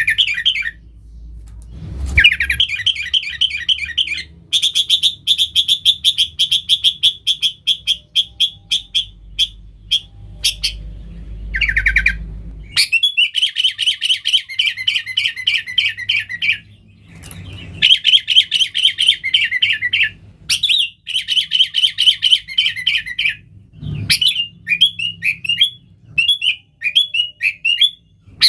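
Sooty-headed bulbul (kutilang) singing in long runs of rapid, repeated chattering notes, broken into several bursts by short pauses.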